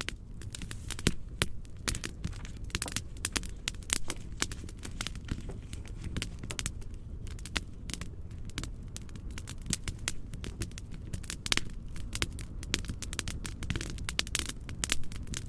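Wood fire crackling in a fireplace: a dense run of sharp irregular pops and snaps over a steady low rumbling noise.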